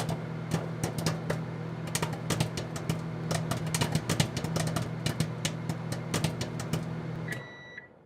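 Microwave oven running with a steady hum while popcorn kernels pop inside a silicone popper: many sharp, irregular pops. The oven stops about seven seconds in, and a single beep follows.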